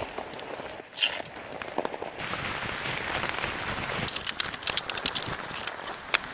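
Rain falling steadily, with many sharp drips and ticks scattered through it, and one louder knock about a second in.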